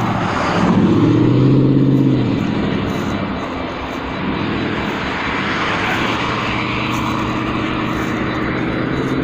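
Helicopter flying overhead: a steady drone of engine and rotor with a fine, even pulsing, a little louder in the first couple of seconds.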